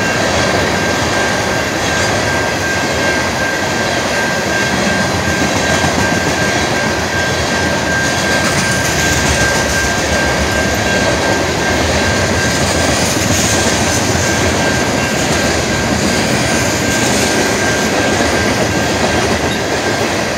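A freight train's cars rolling past a grade crossing, a steady rumble and rattle of wheels on rail, with a thin steady high tone running through it.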